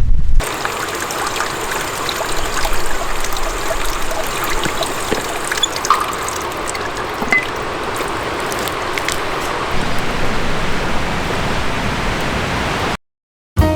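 Water trickling and flowing steadily, like a small stream. It cuts off suddenly near the end.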